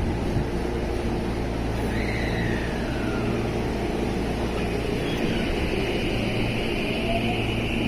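JR West 223 series 2000 electric multiple unit running steadily as it pulls out of the station, a constant low rumble with motor whines that slide in pitch, one falling about two seconds in and a higher one setting in past the middle.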